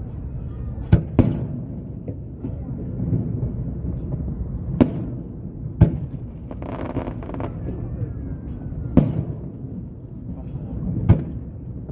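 Aerial firework shells bursting with sharp booms, about six of them: two close together about a second in, then others spaced a second or more apart.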